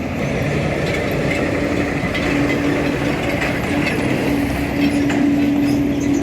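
Steady rumble of road traffic, with a held droning tone from a heavy vehicle's engine or tyres.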